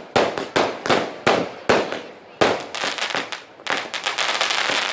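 Fireworks going off: about six sharp bangs in quick succession, each fading out quickly, then a dense, steady crackling from about three and a half seconds in.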